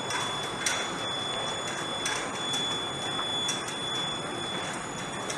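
Steady machine noise with a constant high-pitched whine and a few sharp clicks.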